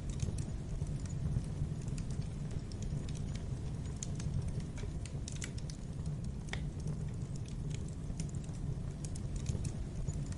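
Wood fire burning in a fireplace: a steady low noise of the flames with irregular small crackles and pops, one sharper pop about six and a half seconds in.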